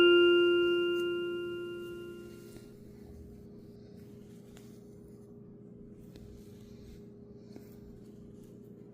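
The last chime-like struck note of the song's accompaniment ringing on and fading out over about two and a half seconds. After it comes a faint steady hum with a few small ticks.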